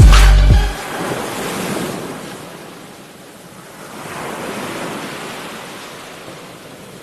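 Music with a heavy bass beat ends under a second in, leaving ocean surf washing onto a beach, swelling and ebbing twice.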